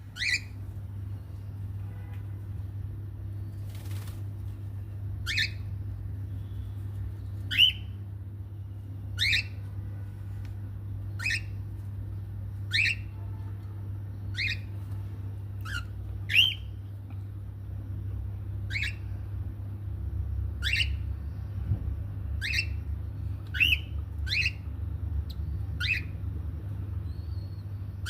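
Cockatiel chick giving short, sharp calls, one every second or two from about five seconds in: the begging calls of a chick being hand-fed. A steady low hum runs underneath.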